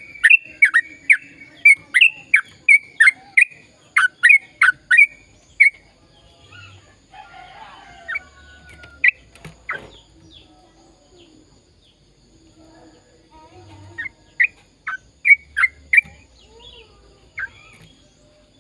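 A sooty-headed bulbul (trucukan) singing a long rapid run of loud, sharp chirping notes, about two a second, for the first six seconds. Softer scattered calls follow, then a shorter run of the same chirps about fourteen seconds in.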